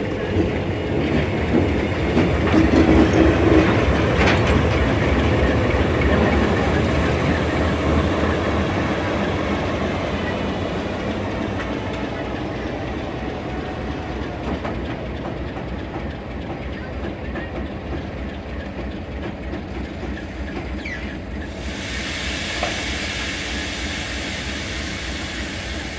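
Durango & Silverton narrow-gauge train running past, with rail and wheel noise. It is loudest a few seconds in and fades slowly after that.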